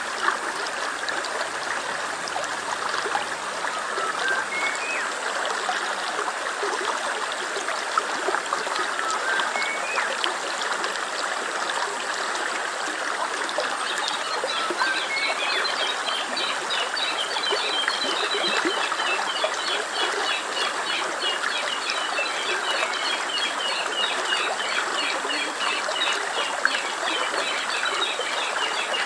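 A stream running steadily, with birds calling over it: a short rising chirp every few seconds, then from about halfway a fast, continuous twittering.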